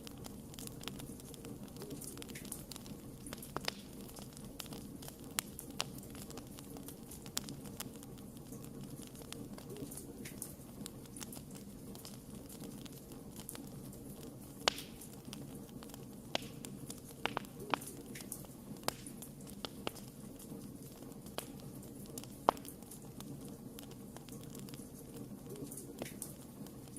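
Wood fire burning with a steady low rumble and frequent sharp crackles and pops from the burning logs, a few much louder pops among them.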